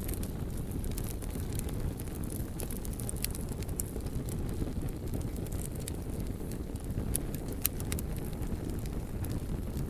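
Wood fire burning: a steady low rumble of flames with scattered sharp crackles and pops, a few of them louder snaps.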